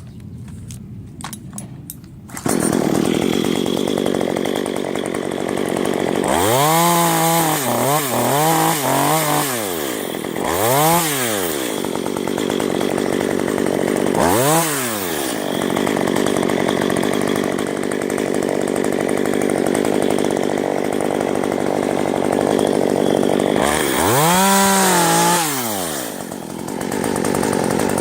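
Gasoline chainsaw running loud and steady, cutting in abruptly about two seconds in. Its engine revs up and down several times: a quick run of revs about a quarter of the way in, two single revs, and another near the end.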